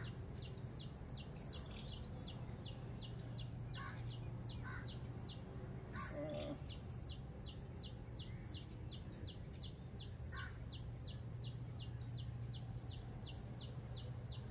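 A small bird calling with a short, high chirp repeated evenly about three times a second, faint over a low steady hum.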